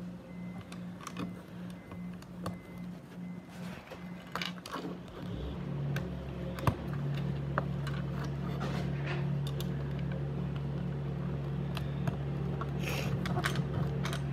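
LEGO bricks clicking and rattling as pieces are handled and searched through. About five seconds in, a steady low machine hum starts and continues.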